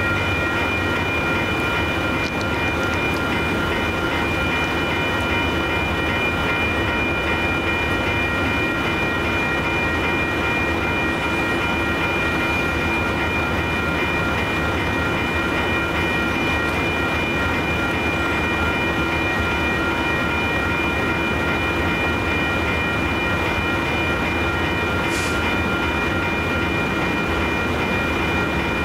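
Freight train of intermodal well cars rolling slowly through a grade crossing: a steady rumble and clatter of steel wheels on rail. Several steady high-pitched ringing tones run over it.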